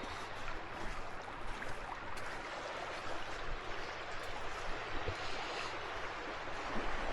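Small waves washing and trickling over a rocky seashore, a steady watery wash with no clear single event.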